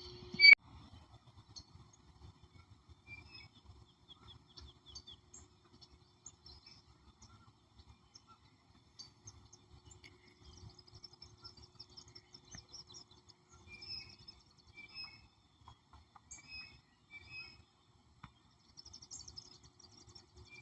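Wild songbirds chirping and singing, short high calls scattered throughout, with a quick trill near the end. A single sharp click about half a second in is the loudest sound.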